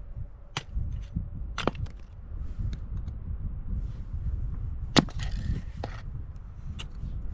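Firewood burning in a wood stove, giving a few scattered sharp cracks and snaps over a steady low rumble. The loudest crack comes about five seconds in.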